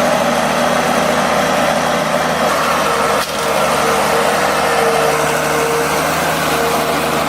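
Engine of a heavy off-road vehicle running steadily, with a brief dip about three seconds in.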